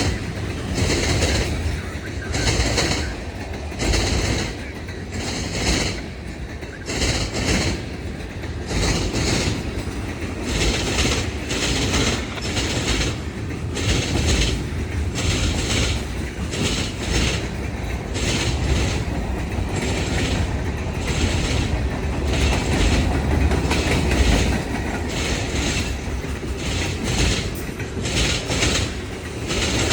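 Freight train rolling past, its car wheels clacking over rail joints in a steady, uneven rhythm over a constant rumble.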